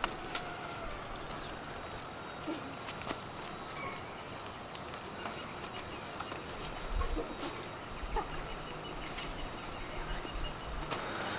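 Steady high-pitched drone of insects, with scattered light clicks and small knocks.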